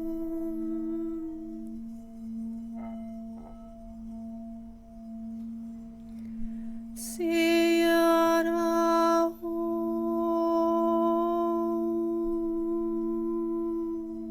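Sustained singing bowl tones ringing steadily as a meditation drone. About seven seconds in, a louder, brighter ringing tone with many overtones sounds for about two seconds, then cuts off abruptly while the steady ringing carries on.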